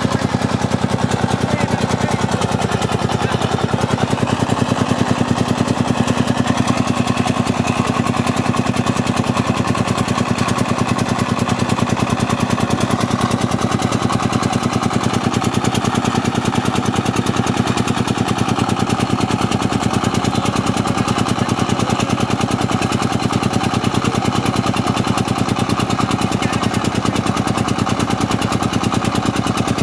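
Single-cylinder diesel engine of a công nông farm truck hauling a load of acacia logs, running steadily with rapid, even firing beats.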